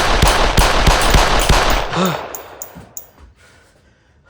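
A sudden loud burst of rapid bangs and crackling noise, a quick run of sharp hits lasting about two seconds and then dying away.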